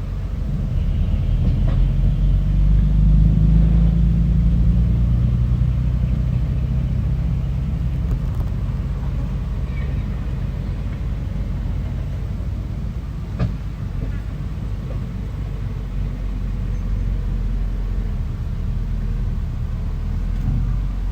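Bulldozer's diesel engine running steadily, growing louder with its pitch rising a little for a few seconds near the start, then holding even. A single sharp knock about two-thirds of the way through.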